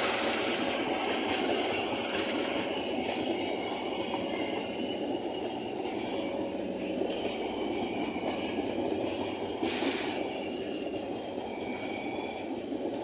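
Train rolling past on the rails, its wheels running with a steady rumble and thin high-pitched squeals. The sound slowly fades, and there is one short sharp noise about ten seconds in.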